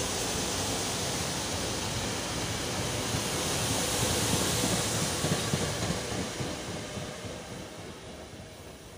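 SEPTA Regional Rail electric multiple-unit train passing the platform: a steady rush of wheels on rail that builds, with a few sharp clicks about five seconds in, then fades as the last car goes by.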